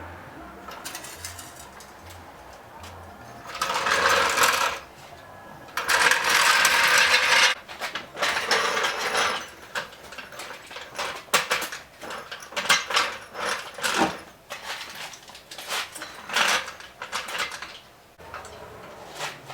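Metal clicking, clanking and rattling as a floor jack and jack stands are worked under a car, with two louder rushing noises a few seconds in.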